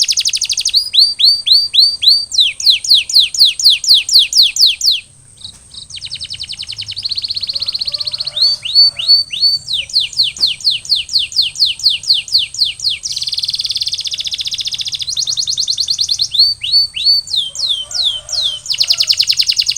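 Male domestic canary singing: long rolled trills of rapid, repeated falling whistled notes, the tempo changing from one tour to the next, with a short break about five seconds in.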